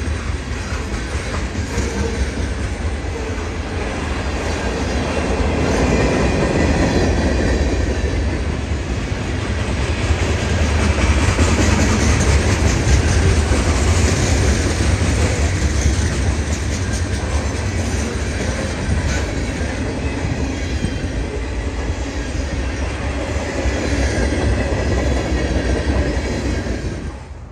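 Freight train cars rolling past: a steady, loud rumble with the clickety-clack of steel wheels over rail joints and a little high wheel squeal. The sound drops off sharply at the very end.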